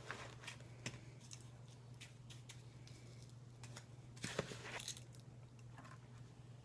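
Faint, scattered small clicks and light scrapes of spoons and sprinkles in a bowl of snow ice cream, over a low steady hum.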